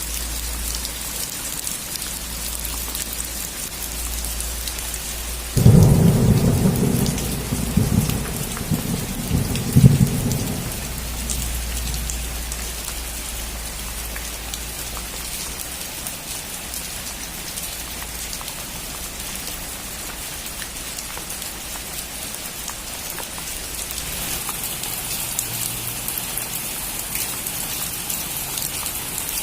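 Steady rain falling on a roof, with a sudden thunderclap about six seconds in that rumbles for about five seconds, with a second loud crack near the ten-second mark.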